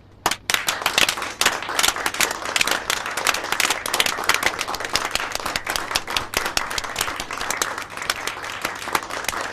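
A group of people applauding by hand: a couple of single claps, then steady clapping from many hands.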